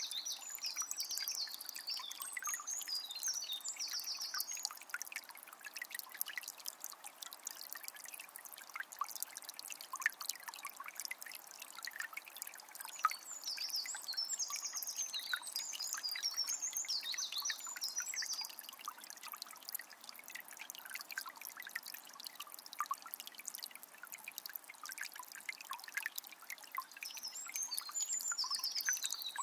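Forest river trickling and splashing over stones, a steady crackling water sound. A songbird sings in short bouts of quick notes three times: at the start, around the middle, and near the end.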